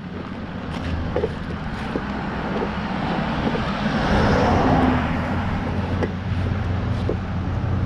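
A car passing on a busy road: its tyre and engine noise swells to a peak about halfway through, then fades, over the steady rumble of other traffic.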